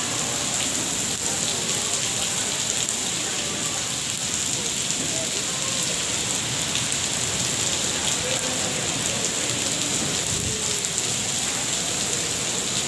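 Steady rain falling on surfaces: an even, unbroken hiss.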